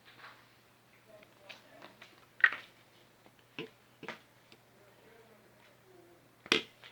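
A few sharp clicks and knocks, the loudest about two and a half seconds in and again near the end, with quieter taps between: handling of a portable personal blender, its motor now stopped.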